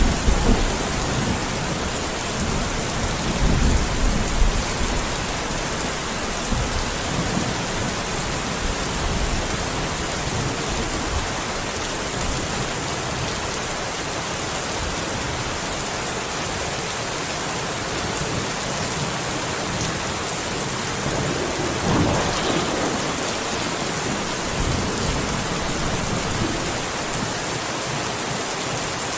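Steady rain hiss with thunder rumbling low in the first few seconds and again briefly about two-thirds of the way through.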